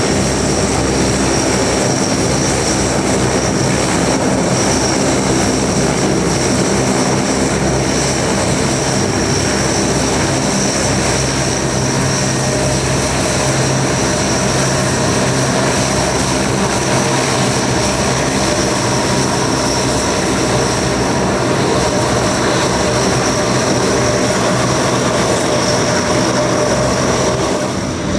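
Four Allison T56 turboprop engines of a NOAA WP-3D Orion running steadily: a constant high turbine whine over a deep propeller drone.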